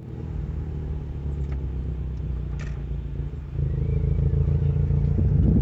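Car engine running at low speed, heard from inside the cabin as a steady low hum that grows louder about three and a half seconds in.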